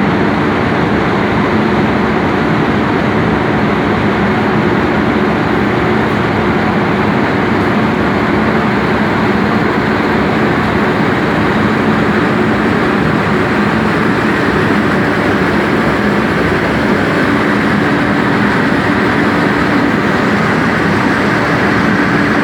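Coffee box dryer with a mixer running: a loud, steady mechanical noise from the blower and the mixer turning the coffee, even throughout with a faint low hum.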